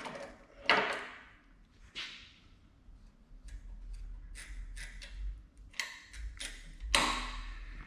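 Sharp metallic clanks that ring briefly, one just after the start, another about a second in, a weaker one at two seconds and a loud one near the end, with lighter clicks in between and a faint low hum under them: metal parts of an old pipe vise and clamp being handled and set up.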